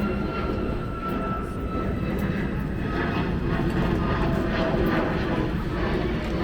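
Boat engines running with a steady low rumble and a faint whine that drifts slightly lower.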